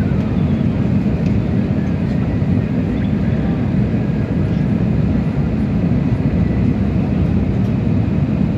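Steady low drone of an Airbus A320neo's engines and airflow, heard from inside the passenger cabin.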